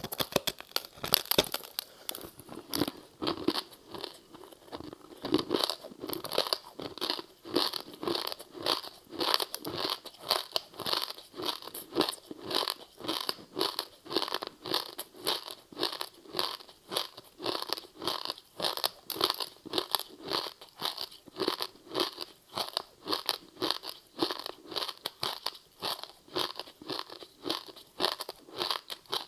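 Close-up chewing of a crispy seaweed-wrapped rice snack: a crunchy bite right at the start, then steady crunchy chewing at about two chews a second.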